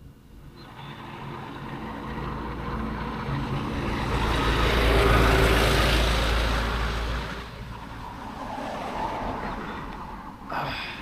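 Road noise of a motor vehicle passing close by, swelling to its loudest about five seconds in and then fading away.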